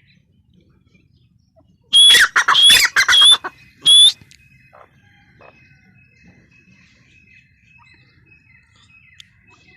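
Grey francolin (teetar) calling: a loud run of shrill, harsh notes about two seconds in, lasting about a second and a half, then one more note a moment later.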